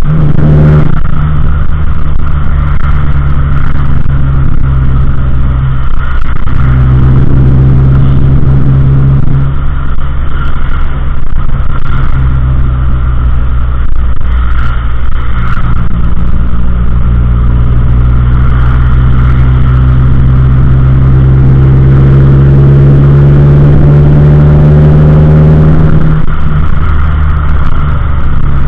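Car engine running while driving, the engine note climbing steadily as the car accelerates, then dropping back sharply near the end.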